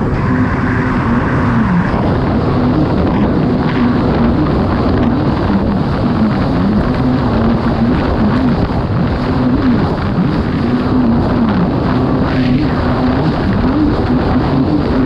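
Kawasaki STX 160 jet ski's four-stroke engine running hard at racing speed, with a dense rush of noise over it. The engine pitch keeps dipping and recovering every second or two.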